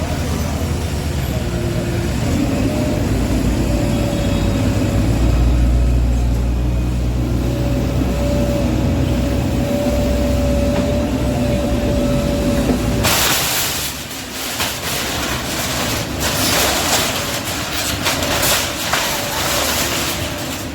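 Heavy diesel engine of demolition machinery running with a low rumble and a steady whine. It cuts off suddenly about 13 seconds in, giving way to a rough noisy hiss with irregular crackles.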